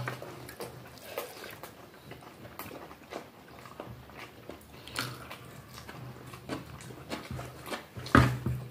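Close-miked eating sounds: soft chewing and small wet mouth clicks as rice and vegetables are eaten by hand, with a few louder clicks near the end.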